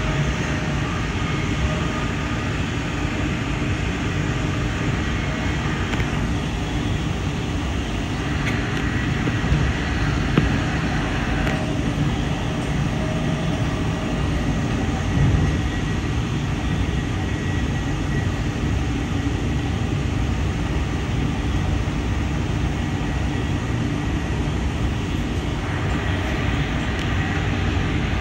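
Amtrak passenger train running at speed, heard from aboard: a steady low rumble of steel wheels on the rails, with two faint knocks about ten seconds in.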